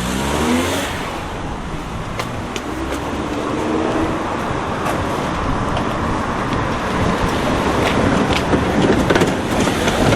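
Road traffic: cars passing on the street with steady traffic noise, swelling a little near the end.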